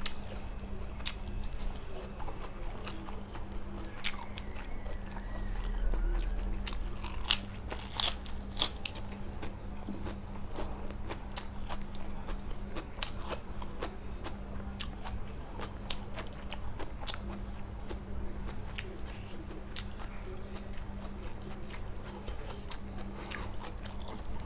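A person chewing and biting food close to the microphone, with many small crisp crunches and clicks scattered throughout, while eating a lightly blanched shrimp salad (nam tok kung). A steady low hum runs underneath.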